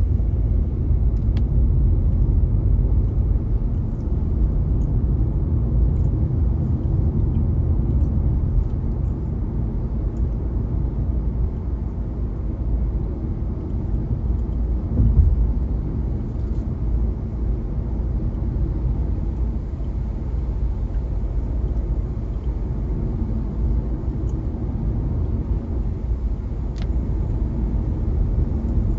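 Car driving, heard as a steady low rumble of engine and tyres on the road, swelling briefly about halfway through, with a few faint scattered ticks.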